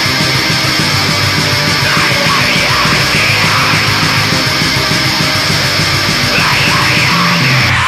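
Loud heavy metal music: a band recording with guitars and bass playing a dense, steady wall of sound.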